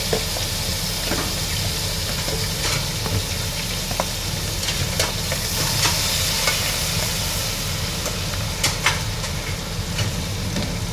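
Chopped chilies sizzling steadily as they fry in hot oil in a pressure cooker, stirred, with scattered clicks of the stirring utensil against the metal pot.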